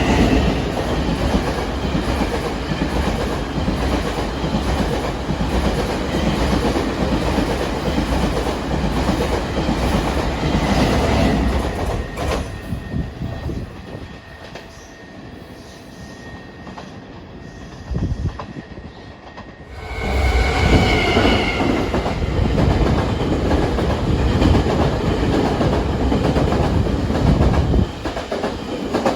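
Train running on the rails, loud and steady with a heavy low rumble. About twelve seconds in it falls off for several seconds, then comes back loud about twenty seconds in.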